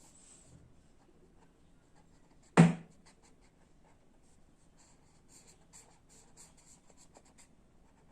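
Faint, quick scratching strokes of a drawing tool on paper, in a run in the second half. A single sharp knock about two and a half seconds in is the loudest sound.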